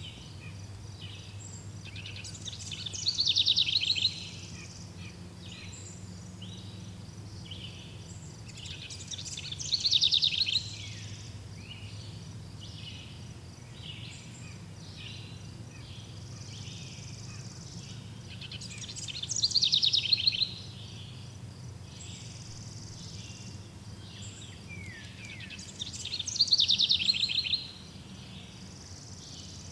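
Birdsong: one bird sings a loud, fast trill four times, several seconds apart. Other small birds chirp steadily in the background.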